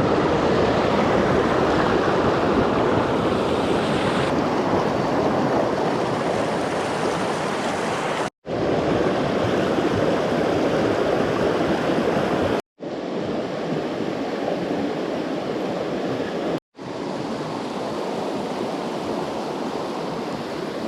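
A swollen mountain stream rushing over rocks, a steady loud roar of water. It cuts out briefly three times, coming back a little quieter after each break.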